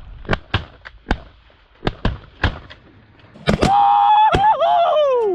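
A ragged volley of shotgun shots from several duck hunters, about seven in the first two and a half seconds and a few more around three and a half seconds in. A long drawn-out yell follows and falls in pitch at the end.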